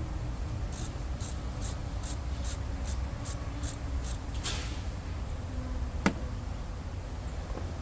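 A ratchet working a hose-clamp screw on an air-intake clamp: about ten quick, even strokes, a little over two a second, for roughly four seconds, then a single sharp click. A steady low rumble runs underneath.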